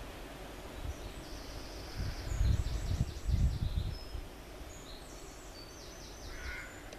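Outdoor ambience with birdsong: high, quick repeated notes in two phrases, one about a second in and one near the end. A low rumble rises and falls in the middle.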